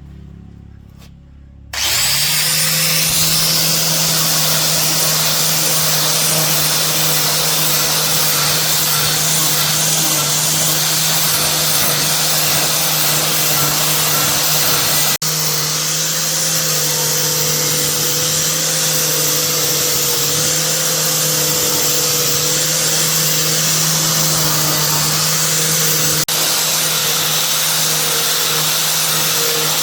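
An electric motor starts about two seconds in and runs steadily at speed, with a steady hum and a high whine over a loud hiss.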